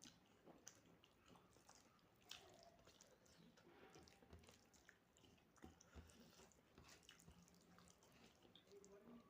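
Faint chewing and wet mouth sounds of someone eating soya chunk curry with rice: scattered soft clicks and squelches at an irregular pace.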